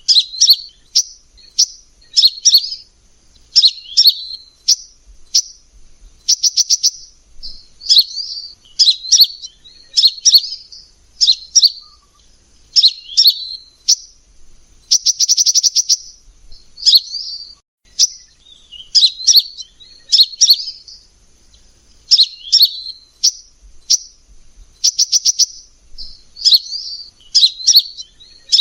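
Kolibri Ninja sunbird singing: short, high-pitched chirping phrases about once a second, broken now and then by a rapid trill of fast repeated notes.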